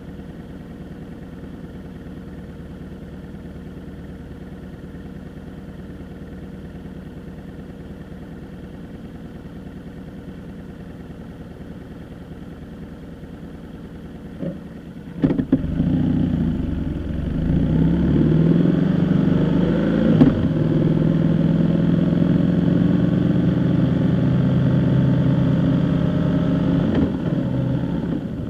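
A vehicle engine runs at a low steady idle. About halfway through there are a few sharp clicks, then the engine speeds up and the vehicle pulls away, running loud and steady before easing off near the end.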